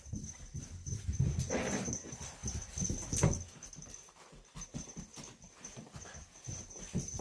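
Excited dog making a run of short, irregular sounds, loudest about a second and a half in and again around three seconds in, as it greets its owner on her return home.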